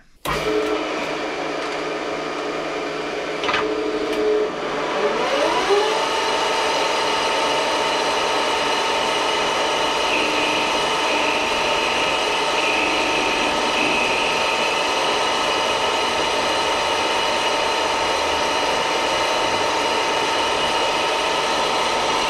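Electric power tool starts, its motor pitch rising to full speed about five seconds in, then running steadily while it works metal inside an aluminium flashlight tube.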